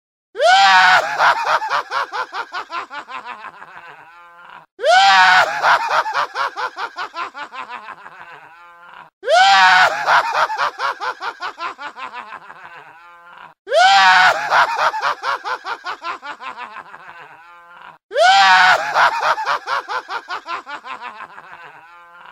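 A mouth-made vocal sound, played five times over in identical takes: each opens with a sharp upward swoop in pitch, then breaks into a rapid pulsing that slows down and fades over about four seconds.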